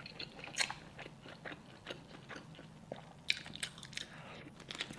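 A person chewing and biting into braised tiger skin chicken feet close to the microphone: irregular small crunches and wet clicks of skin and bones.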